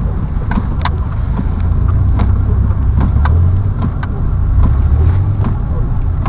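Car engine running as the car bogs down in deep snow, heard from inside the cabin: a steady low rumble that swells now and then, with scattered short clicks and knocks.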